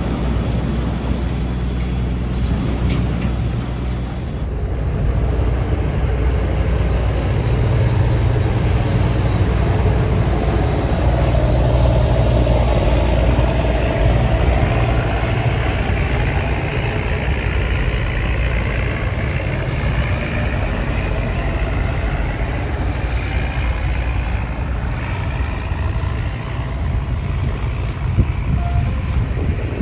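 Steady drone of a river tourist boat's engine under way, with a rushing noise of wind and water. A fainter whine slowly rises in pitch through the middle.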